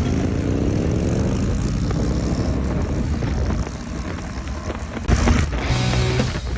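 Motorcycle engine accelerating, its pitch rising over the first couple of seconds, under a steady rush of wind. Near the end it gives way to music.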